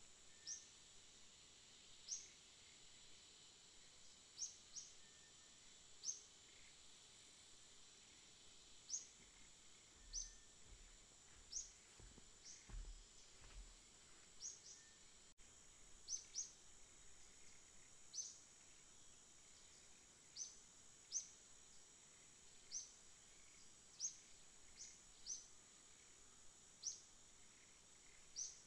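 A bird repeating short, high chirps at irregular intervals of about one to two seconds, over a steady faint high-pitched hiss. A few faint low thumps come near the middle.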